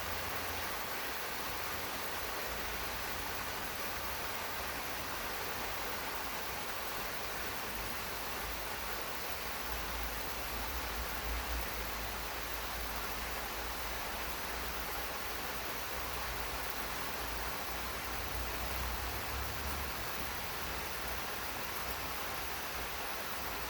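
Steady rain falling on a garden, an even hiss with no single drops standing out, over a low rumble that grows a little stronger about ten seconds in.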